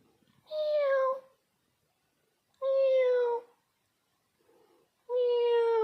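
A young kitten meowing three times, each call a high mew about a second long that falls slightly in pitch, a couple of seconds apart.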